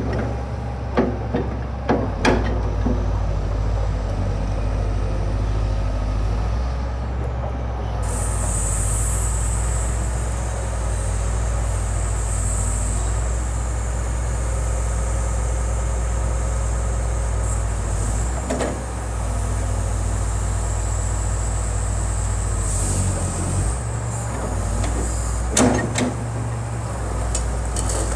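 Fiat-Hitachi EX355 tracked excavator's diesel engine running at a steady idle, with a few sharp clunks near the start, about two-thirds through, and near the end.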